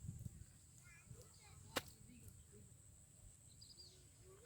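Quiet outdoor background with faint scattered chirps and a single sharp click about two seconds in.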